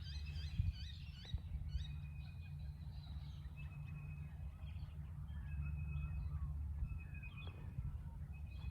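Small birds chirping and whistling: a burst of quick rising chirps in the first second or so, then scattered short steady whistled notes, over a steady low rumble.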